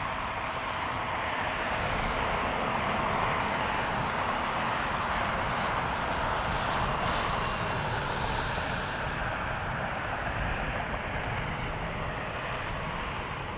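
Jet airliner's engines passing, the noise growing to a peak about halfway through and then fading.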